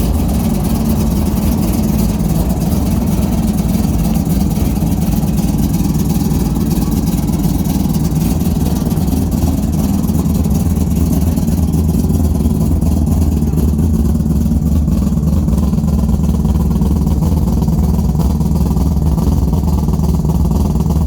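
Peripheral-ported 3.9-litre six-rotor rotary engine in a custom BMW M6 running steadily at idle, a deep low exhaust note with no revs.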